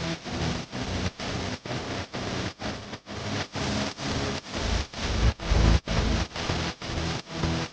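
Firework bangers going off in rapid succession, about four bangs a second, with the heaviest, deepest booms about five to six seconds in.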